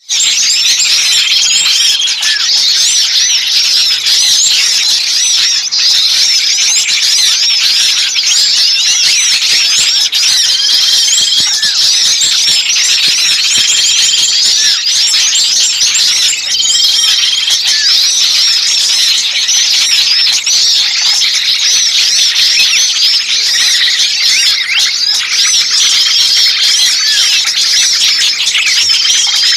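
Bird-trapping lure recording: a dense, loud chorus of many small birds chattering and calling excitedly in high-pitched chirps and squeaks. A short, level whistled note recurs every few seconds over the chatter. The agitated calling of small birds is meant to draw other birds in.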